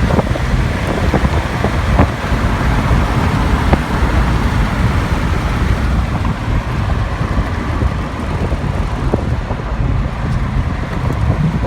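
Nissan 300ZX twin turbo's 3.0 L V6 engine and road noise heard from inside the moving car, a steady low rumble, with a couple of brief knocks about two and four seconds in.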